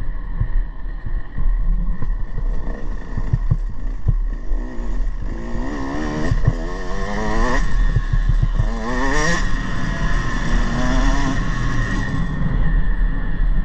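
Motocross bike engine revving, its pitch climbing again and again through the middle of the stretch as the throttle is opened, over a constant low rumble and scattered knocks.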